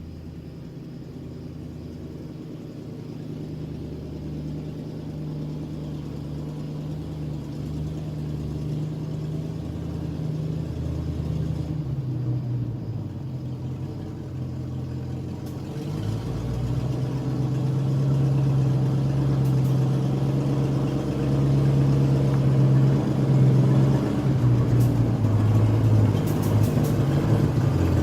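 Heavy truck engine running, growing steadily louder, with a change in engine note about halfway through.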